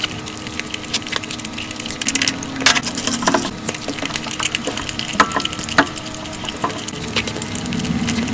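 Close-miked mukbang eating sounds, sped up: wet chewing, smacking and mouth clicks while puri with curry is eaten, with many short irregular clicks and pops.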